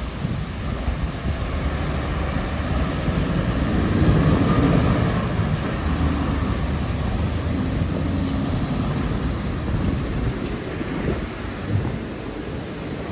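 Scania heavy-haulage trucks' diesel engines pulling away, loudest about four seconds in.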